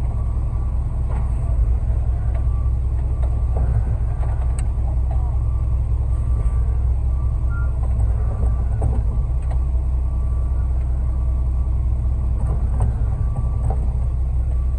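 Ready-mix concrete truck's diesel engine running steadily during the pour.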